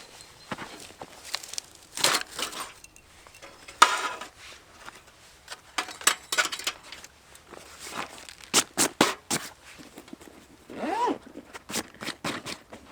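Irregular clicks, knocks and scraping rustles of things being handled, with one short squeak that rises and falls near the end.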